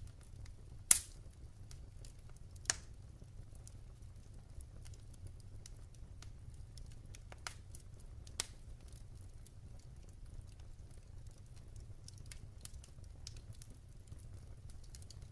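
Wood fire burning in a fireplace: scattered crackles and pops over a low steady rumble. The sharpest pop comes about a second in, a second pop follows shortly after, and a couple more come over halfway through, with faint ticks in between.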